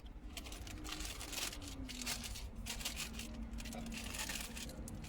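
Paper food wrapping and napkins crinkling and rustling in irregular bursts as they are handled, over a steady low hum.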